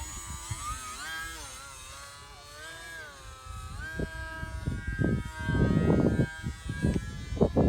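Small RC airplane's electric motor and pusher propeller whining in flight, its pitch sliding up and down as the throttle and distance change. Gusts of wind buffet the microphone, loudest about halfway through and again near the end.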